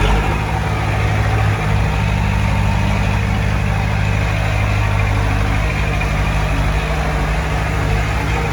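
Heavy diesel engine of earthmoving equipment running steadily at a low, even pitch.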